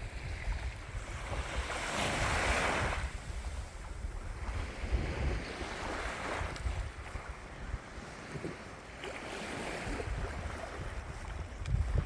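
Sea waves washing in three times, the first the loudest, with wind rumbling on the microphone.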